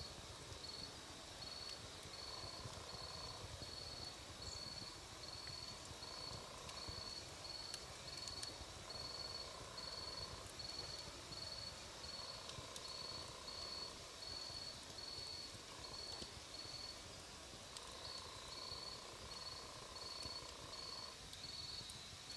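Campfire burning low with a few faint crackles, under an insect chirping in an even rhythm of about two high chirps a second. A lower call, each about a second long, comes every few seconds.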